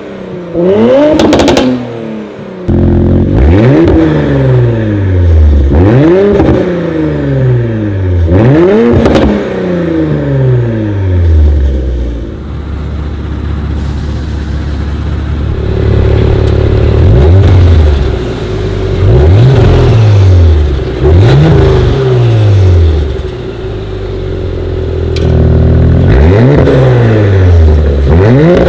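Audi RS5 B9's 2.9-litre twin-turbo V6 being free-revved again and again through a Fi Exhaust valvetronic catback and downpipe, each blip rising sharply and falling back to idle. The exhaust valves are open at first, closed from about eleven seconds in, and open again near the end.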